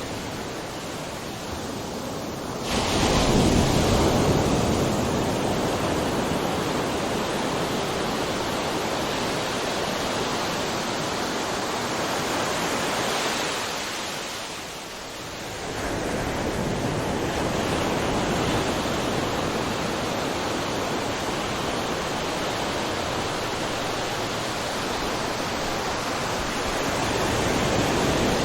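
Ocean waves crashing and washing on a shore: a continuous hiss of surf, with a wave breaking loudly about two and a half seconds in and another swelling up after a brief lull around the middle.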